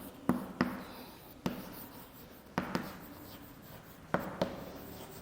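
Writing on a board: several sharp taps as the writing tool strikes the surface, with faint scratching strokes between them.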